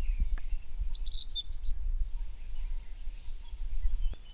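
Birds chirping in short bursts, about a second in and again after three seconds, over a steady low rumble.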